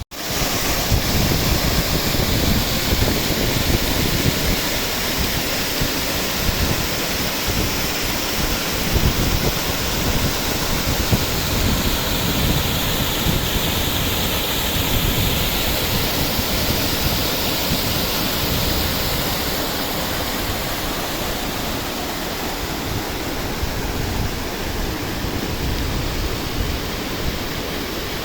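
Water of a small river rushing steadily, a dense, even rush that eases slightly after the midpoint.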